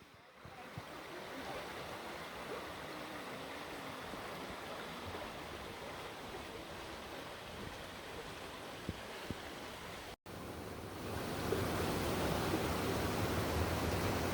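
Waterfall: a steady rush of falling water that cuts out briefly about ten seconds in and comes back louder.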